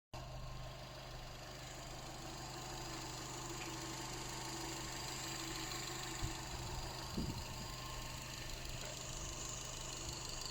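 Subaru EJ20Y 2.0-litre turbocharged flat-four engine idling steadily, with a couple of brief knocks a little past the middle.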